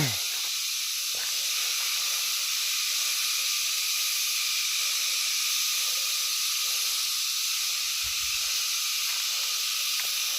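Steady, high-pitched chorus of night insects, an unbroken shrill hiss. About eight seconds in there is a brief low thud.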